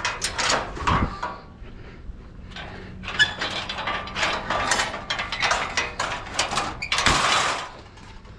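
Clattering and knocking of curbside scrap being handled and loaded up a trailer's gate, with a heavier thud about seven seconds in.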